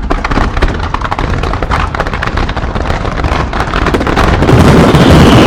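Dense barrage of aerial fireworks: rapid overlapping bangs and crackling that start suddenly, then thicken about four seconds in into a continuous rumbling roar of bursts.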